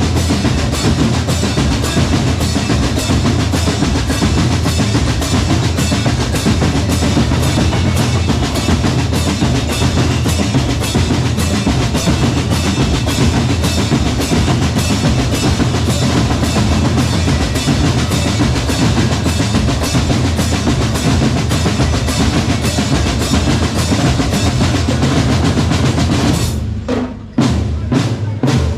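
Drum corps percussion with bass and snare drums playing a loud, dense, fast-driving pattern. About two seconds before the end it briefly drops out and comes back in separate, spaced hits.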